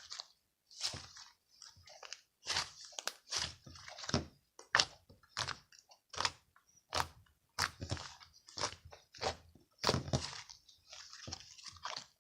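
Crunchy chewing: something crisp being bitten and chewed in a steady run of sharp crunches, about one or two a second.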